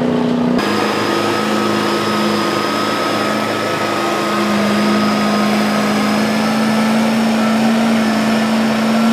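Truck engine held at high revs, a steady loud drone that dips slightly in pitch about halfway through, with an abrupt cut to a new shot about half a second in.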